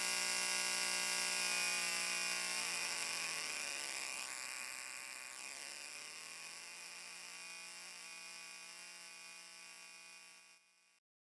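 Steady electrical buzz made of many held tones over a high hiss, fading out gradually and stopping just before the end.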